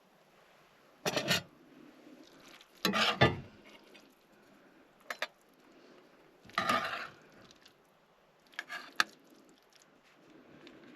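Cookware and utensils clattering in five brief bursts, the loudest about three seconds in, with quiet between them.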